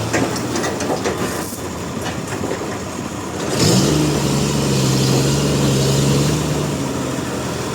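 An engine running steadily, with a few sharp knocks in the first second or so. It then revs up about halfway through, holds the higher speed for about three seconds and eases back down.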